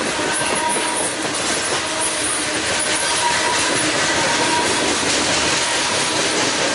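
Railroad cars rolling past with a steady rumble of wheels on rail, with faint high wheel squeals during the first few seconds.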